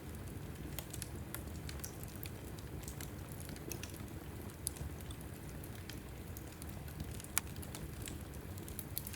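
Wood fire burning in a fireplace: a steady low rumble of flames with scattered sharp crackles and pops from the logs, the loudest pop about seven seconds in.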